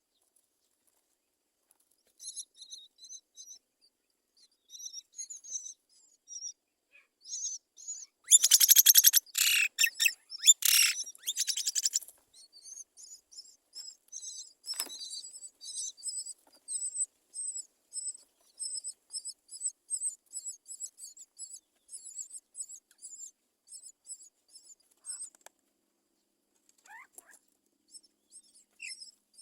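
Nestling birds calling in the nest: high, thin chirps, then a loud, harsh burst of calls lasting about four seconds, followed by rapid, evenly repeated high chirping that fades out near the end.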